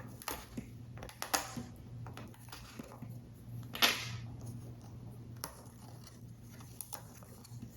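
Paper model parts being handled: scattered rustles and light taps of paper, the loudest crinkle about four seconds in, over a low steady hum.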